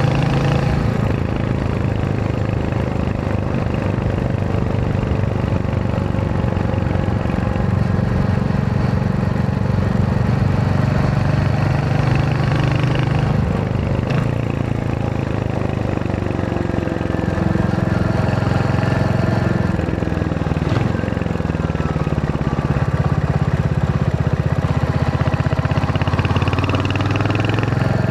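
Royal Enfield Hunter 350's single-cylinder engine running on the move, its pitch falling and rising a few times in the second half as the speed changes.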